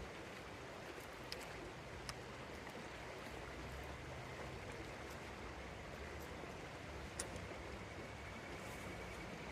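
River water flowing with a steady rush, with a few sharp clicks.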